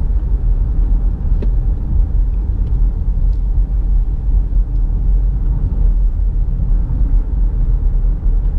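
Steady low rumble of road, tyre and engine noise inside the cabin of a 2017 Nissan Rogue SV AWD on the move.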